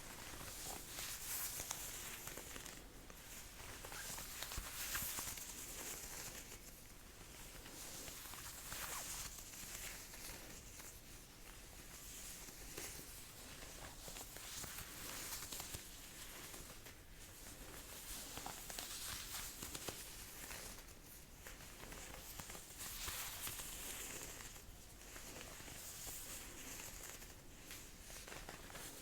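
Jacket fabric rustling and swishing as a sleeve is rolled up, in repeated soft strokes every second or two.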